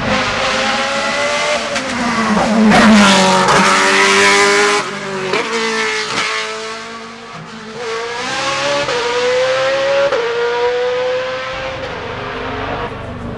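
Hill-climb race car engine at high revs, accelerating hard through the gears with quick upshifts. It is loudest a few seconds in as the car passes, then dips and rises again as it pulls away up the climb.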